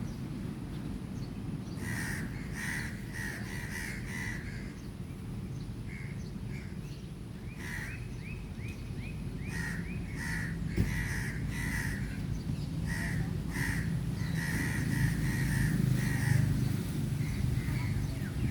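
Birds calling in several runs of short, quickly repeated chirps, including one run of quick sliding chirps. Underneath is a steady low rumble that grows louder near the end.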